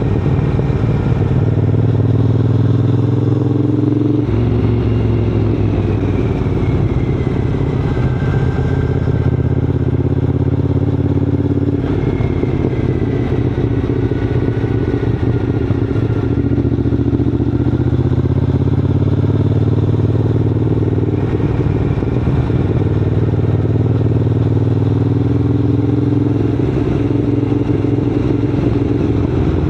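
Triumph Scrambler 900's parallel-twin engine running under way, its revs climbing and then dropping abruptly as it shifts gear about four seconds in and again about twelve seconds in, then building again near the end.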